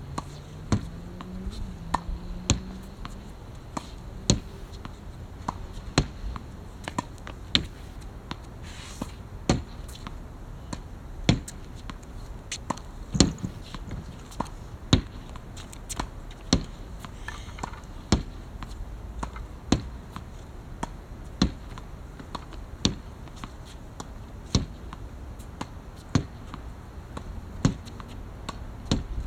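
Badminton racket hitting a shuttlecock again and again in drill practice: a sharp hit about every second and a half to two seconds, with fainter taps between.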